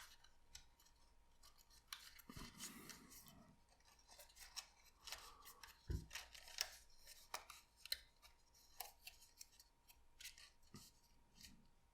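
Faint rustling, creasing and small clicks of thin card stock being handled and folded, in scattered short bursts.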